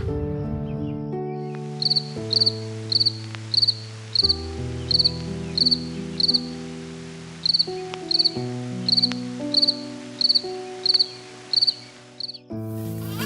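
An insect chirping in short pulsed chirps about twice a second, over background music of sustained chords.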